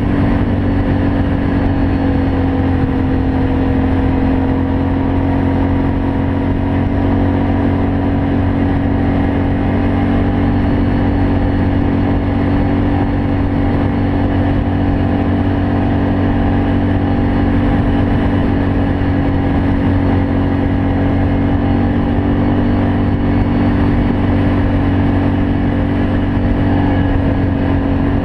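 Can-Am Outlander 500 ATV's V-twin engine running through an aftermarket Yoshimura exhaust, holding a steady engine speed with only slight wavering in pitch.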